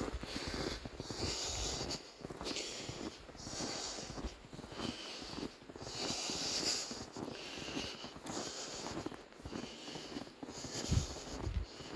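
A person breathing hard in and out through nose and mouth, a hissing swell about every second, with a faint wheezy whistle on a few breaths. A low thump comes near the end.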